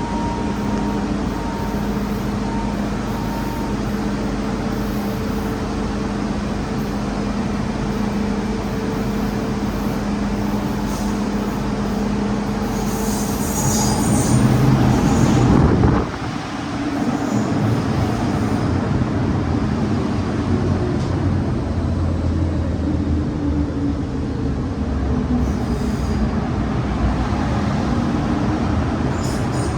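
MTR M-Train electric multiple unit pulling into a station, with a steady humming drone from its motors. The noise swells over about two seconds around the middle, then drops away suddenly, leaving a lower steady rumble.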